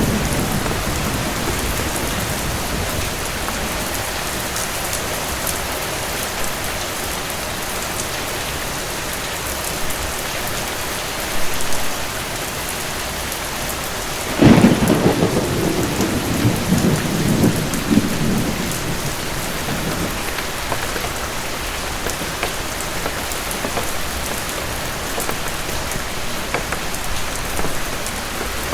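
Steady rain falling. About halfway through, a sudden thunderclap that rumbles for several seconds before fading back into the rain.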